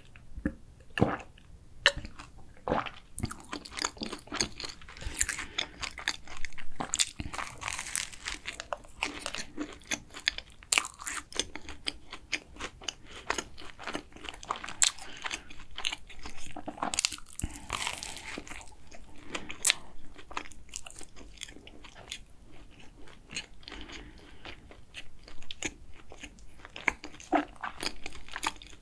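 Close-miked chewing and biting of a flaky, crusty cruffin pastry: a dense run of irregular crunchy crackles and soft mouth sounds.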